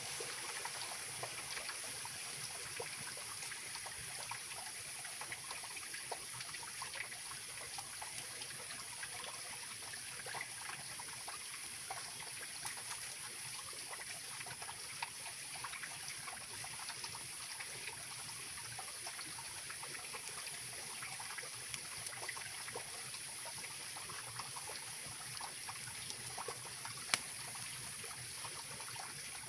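Mountain river flowing steadily over rocks, a continuous rush and trickle of water with scattered small clicks and one sharp pop near the end.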